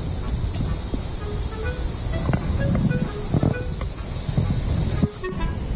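Steady high-pitched chorus of summer insects, with a low rumbling noise underneath.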